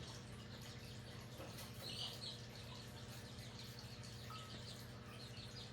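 Quiet room tone with a steady low hum, and a faint high bird chirp about two seconds in.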